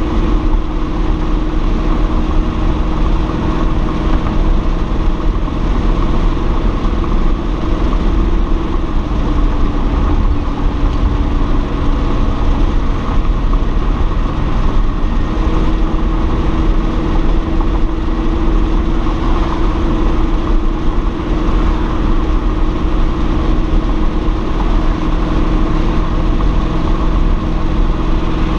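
1980 Chevrolet El Camino's 5.0L V8, breathing through Hooker competition headers, running steadily at cruising speed, heard from inside the cab with road noise. The engine note dips a little about nine seconds in and rises back about six seconds later.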